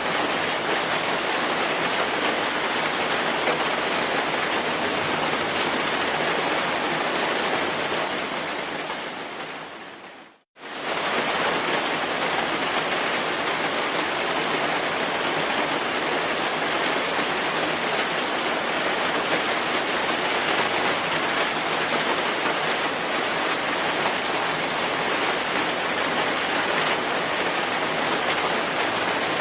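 Steady, dense rainfall. It fades down to a moment of silence about ten seconds in, then comes straight back at full level.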